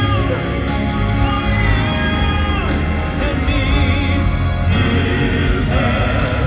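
Live southern gospel quartet music: a band playing with voices singing.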